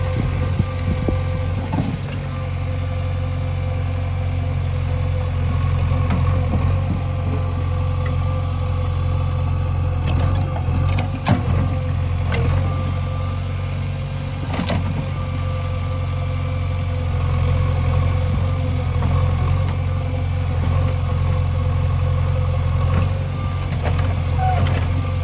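JCB 3DX backhoe loader's diesel engine running steadily, with a steady higher tone over its low hum. A few sharp knocks come through about halfway.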